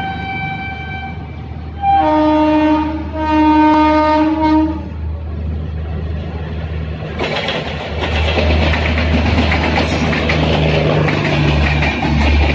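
Approaching Indian express train's locomotive horn sounding two long blasts about two seconds in, after a brief higher horn note at the start. From about seven seconds the passing train's wheels clatter steadily over the rail joints.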